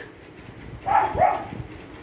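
A bird calling: two short calls close together about a second in.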